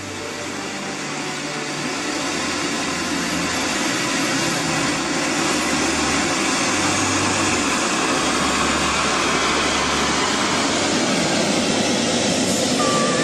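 Turbine engine of a radio-controlled SR-71 Blackbird model jet running: a steady rushing hiss that swells over the first couple of seconds and then holds.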